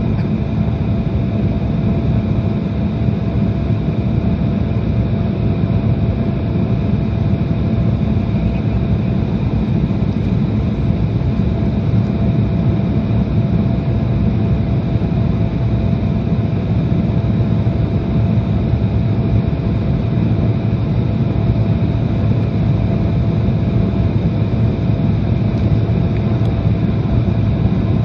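Airliner cabin noise in flight: a steady, loud drone of engines and rushing air, with a few faint constant tones above it.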